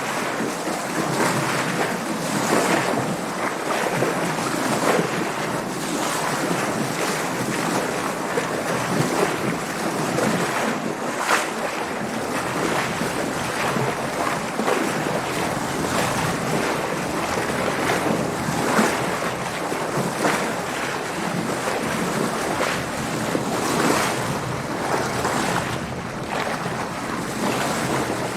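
Sea water splashing and rushing against a sailing boat's hull, with wind blowing across the microphone. Short splashes come every second or two over a steady wash.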